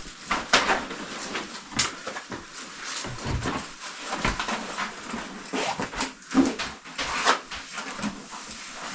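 Irregular scuffs, scrapes and knocks of people clambering down over rock with their caving gear rustling.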